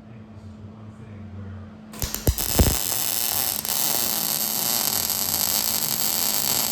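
Electric welding arc on steel: it strikes about two seconds in with a few sharp crackles, then runs as a steady hiss and sizzle of a weld bead. A constant electrical hum sits underneath.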